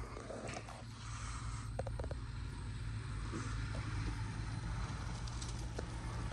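A Jeep engine runs with a steady low hum, with a few light clicks and rattles about two seconds in and again near the end.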